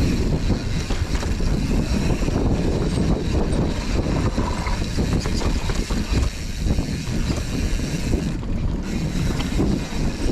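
Wind buffeting the microphone of a mountain bike descending a rough, rooty enduro trail, over a continuous rumble of tyres on dirt and frequent knocks and rattles as the bike hits roots and bumps.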